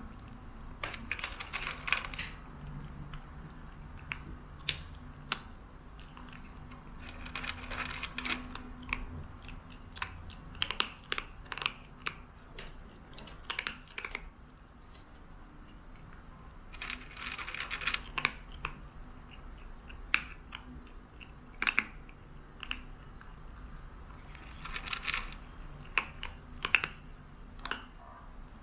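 Irregular small clicks and rattles in short clusters every few seconds, over a low steady hum.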